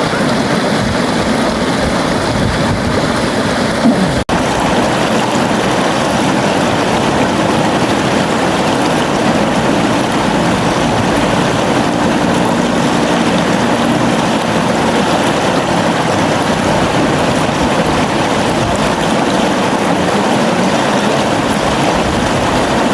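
River water flowing steadily in an even, unbroken rush. The sound cuts out for an instant about four seconds in.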